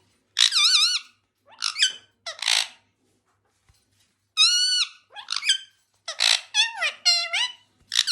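Indian ringneck parrot giving a string of short, shrill, high-pitched calls and chatter with a wavering pitch, in bursts separated by brief pauses.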